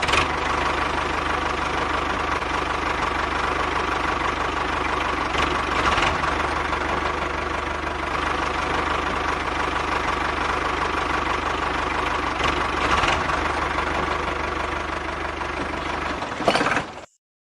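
Small toy engine running steadily with a rattly knock, cutting off suddenly near the end.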